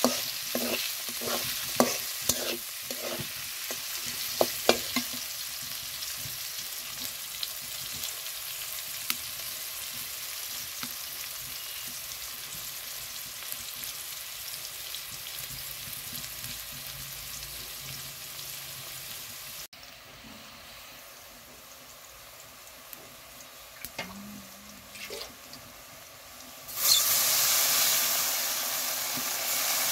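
Sliced onions frying and sizzling in oil in an iron karahi, with a metal spatula scraping and clacking against the pan in quick strokes during the first five seconds. The sizzle drops lower about two-thirds through, then a sudden loud hiss of sizzling breaks out near the end as steam rises from the pan.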